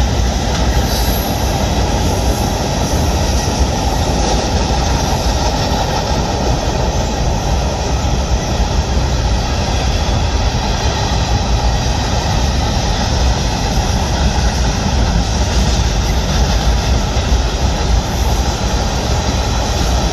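Freight train's cars rolling steadily across a trestle bridge: a continuous rumble and clatter of wheels on rail.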